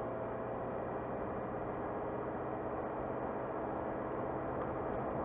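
Car driving at a steady pace, heard from inside the cabin: an even engine drone with constant tones over road noise.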